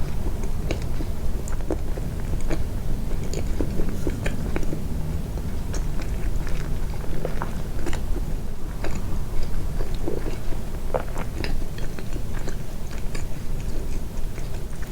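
Close-miked, amplified chewing of a soft homemade sweet: wet mouth clicks and smacks scattered irregularly over a steady low hum.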